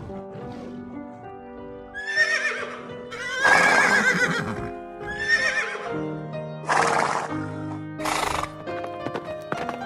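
Horse whinnying five times, each call shaky and wavering in pitch and the second the longest and loudest, over steady background music.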